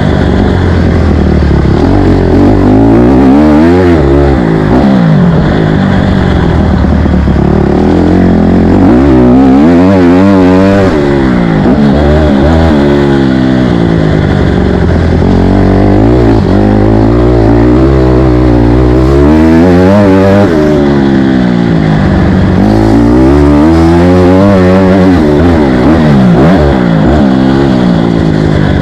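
Motocross dirt bike engine revving hard, its pitch climbing and falling again and again as the throttle is opened and rolled off.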